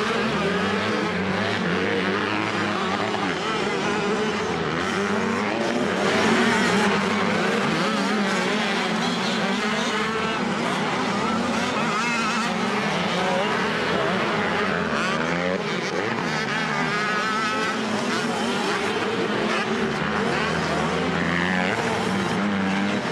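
Several 85cc motocross bikes racing on a dirt track, their engines revving up and down in overlapping waves as they accelerate and back off.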